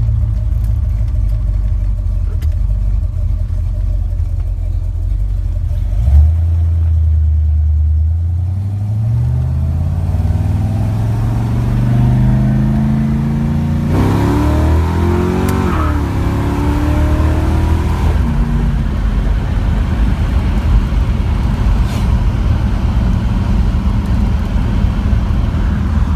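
1979 Corvette's new 454 big-block V8 heard from the driver's seat pulling away from a stop: it idles for about six seconds, then the revs climb steadily, break at a gear change about fourteen seconds in, and settle into a steady cruise from about eighteen seconds.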